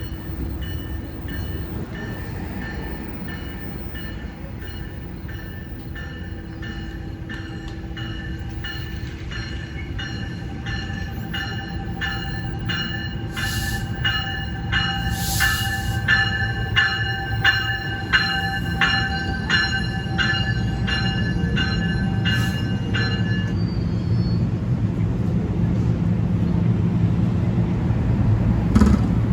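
A train passing on the Northeast Corridor: a steady high whine with rhythmic clicks about two a second, which stop abruptly about two-thirds of the way in. Under it a low rail rumble grows steadily louder toward the end.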